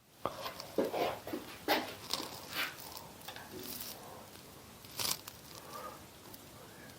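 Small clicks, taps and scrapes of a measuring tool being handled and repositioned in a freshly machined opening in a mini lathe headstock. The sharpest click comes about five seconds in.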